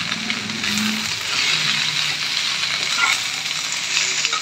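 Drumstick (moringa) leaves sizzling in a hot kadai with a little oil while a spatula stirs them, with a few light knocks of the spatula.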